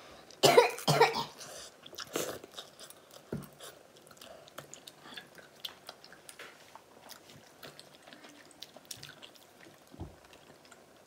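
Close-up chewing and mouth noises of people eating instant hotpot, with faint clicks throughout. Near the start come a few short, loud coughing bursts, typical of a reaction to very spicy food.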